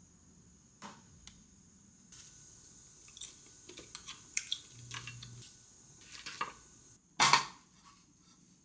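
Dishes and utensils clinking and knocking in scattered short clicks, with one louder clatter about seven seconds in.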